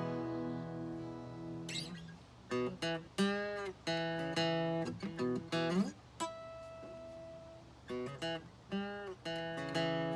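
Seagull CW Mini Jumbo acoustic guitar with a solid cedar top, played as a mix of picked notes and strummed chords that ring out. One note is held for about a second and a half past the middle, and a couple of notes bend in pitch.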